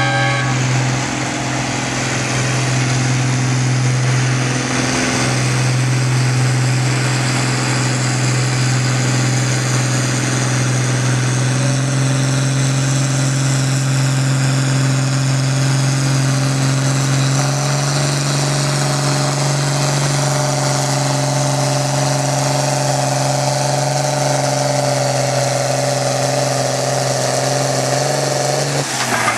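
John Deere 4020 tractor's six-cylinder engine pulling a weight sled under heavy load, holding one steady note that steps up in pitch about a third of the way in and again a little past halfway. Near the end the engine drops off suddenly as the pull ends.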